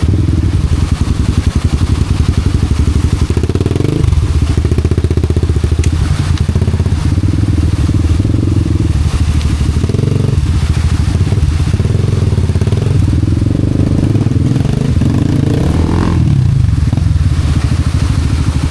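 Honda Wave 125 motorcycle's single-cylinder four-stroke engine running hard, its pitch rising and falling with throttle changes about four, ten and sixteen seconds in.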